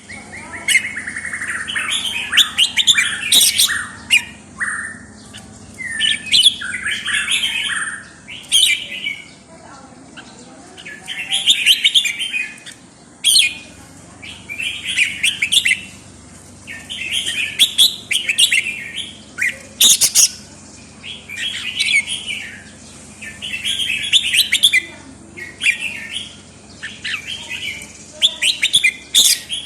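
A pet songbird singing: short, rapid warbled phrases repeated about every two seconds, with sharp high chirps in between.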